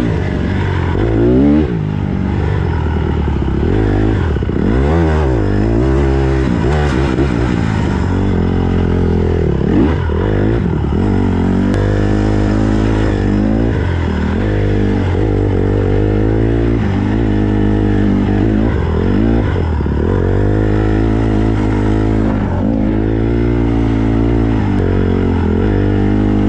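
Honda CRF150R dirt bike's single-cylinder four-stroke engine being ridden hard, revving up and down with throttle and gear changes. Its pitch climbs and drops over and over at first, then holds steadier about halfway through.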